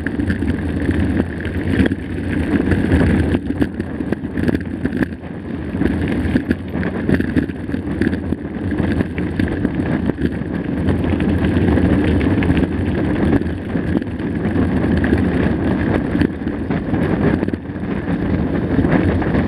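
Mountain bike riding on a dirt track: steady wind noise on the camera microphone over tyre rumble, with frequent small rattles and knocks from the bike.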